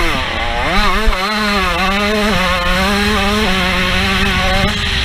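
A 125cc two-stroke motocross bike's engine revving hard under the rider. The revs climb sharply about half a second in, hold high and waver through the middle, and dip and rise again near the end, over a low rumble of wind on the helmet microphone.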